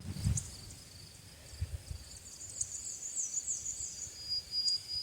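Faint, high-pitched chirps of woodland insects and birds, with a quick run of about five falling notes in the middle and a held thin tone near the end, over low, irregular thumps and rumble.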